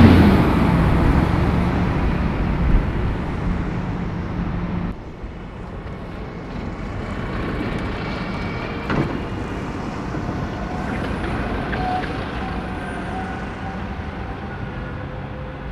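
Diesel bus engine running close by, fading as it pulls away. About five seconds in, the sound drops suddenly to quieter city street traffic with a faint steady whine.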